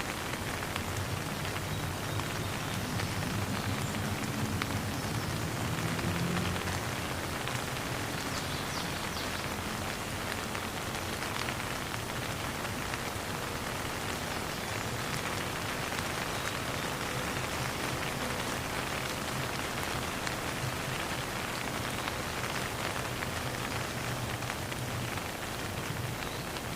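Steady rain falling on a surface, an even patter of many drops with no thunder.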